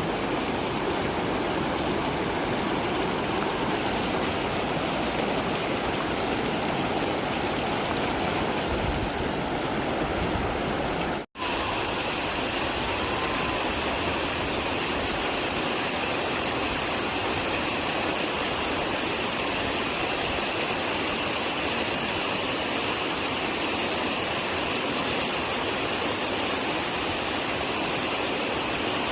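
Mountain stream rushing steadily over rocks. The sound cuts out for a moment about eleven seconds in, then carries on.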